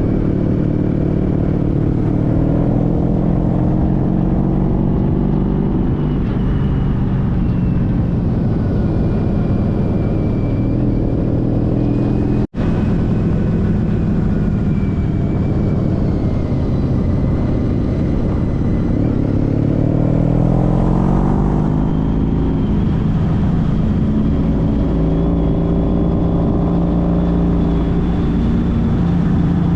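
Honda CTX1300's V4 engine running under way, its pitch rising and falling with the revs over wind rush, climbing clearly about twenty seconds in as the bike accelerates. The sound cuts out for a split second about twelve seconds in.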